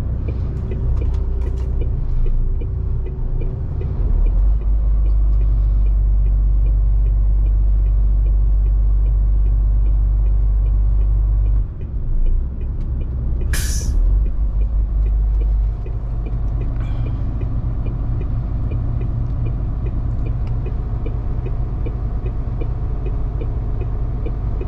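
MAN TGS 470 hp truck's straight-six diesel engine running as the truck drives, a steady low drone that grows louder about four seconds in and drops and changes about halfway through. A short sharp hiss of compressed air comes from the truck's air system about halfway through.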